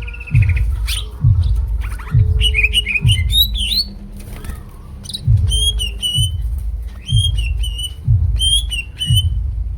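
Cucak ijo (green leafbird) singing a varied string of sharp chirps, whistled notes and trills, mixing in imitated calls. Under it a deep thump repeats about once a second and is louder than the bird, with a short gap near the middle.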